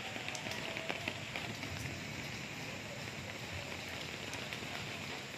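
Steady rain falling: an even hiss, with a few sharp ticks of single drops.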